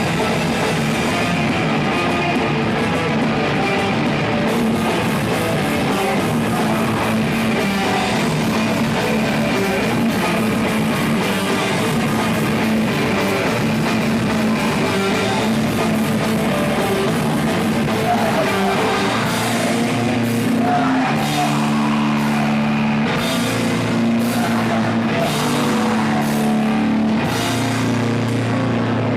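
A live rock band playing loudly: distorted electric guitars, bass and drum kit, with some singing.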